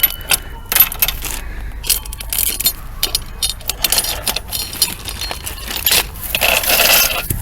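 Metal drive chain clinking and rattling as it is handled and pulled off a mini bike's clutch sprocket, in many short sharp clinks, with a longer scraping rattle near the end.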